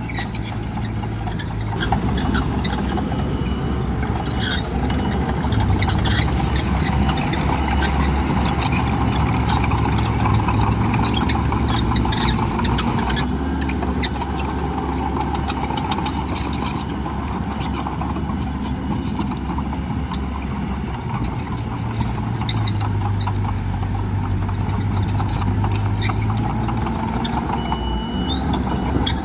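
Heavy diesel earthmoving machinery running, a bulldozer or dump truck engine working under load. The steady drone grows louder about two seconds in and swells again later.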